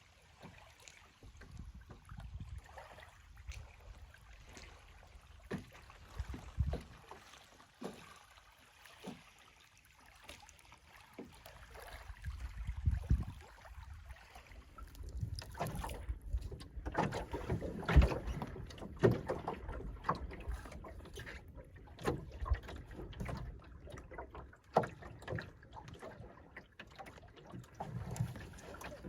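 Small wooden sail-and-oar dinghy (CLC Skerry) under way: water sloshing along the hull and wind buffeting the microphone, with irregular knocks from the boat. The sound grows louder and busier from about halfway.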